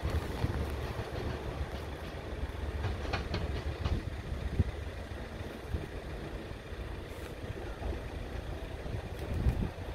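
Class 170 Turbostar diesel multiple unit running slowly away over pointwork, its diesel engines giving a steady low rumble. A cluster of wheel clicks over the points about three to four seconds in.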